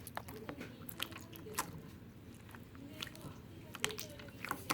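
Opaque slime being squished and pressed by hand, giving irregular sharp little clicking pops over a soft wet squishing.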